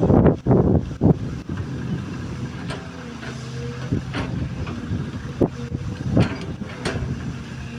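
XCMG XE215C hydraulic excavator's diesel engine running steadily, with a loud noisy burst in the first second and a few short sharp knocks later on.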